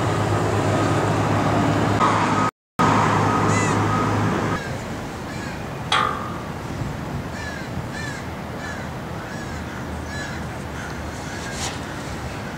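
Steady traffic hum from the street for the first few seconds, broken by a brief dropout, then a bird calling over and over in short arched notes about twice a second. A single sharp knock sounds about six seconds in.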